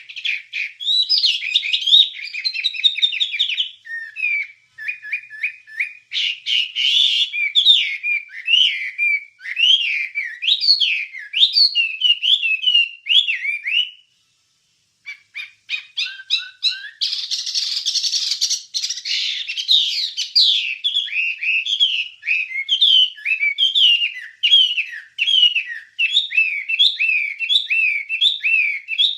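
Wambie songbird singing a long, fast run of quick chirping and whistled notes that glide up and down, broken by a pause of about a second halfway through.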